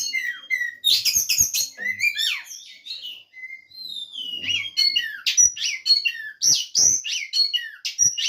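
Oriental magpie-robins (kacer) singing: a fast, varied run of whistles and chirps, with a short lull about three seconds in.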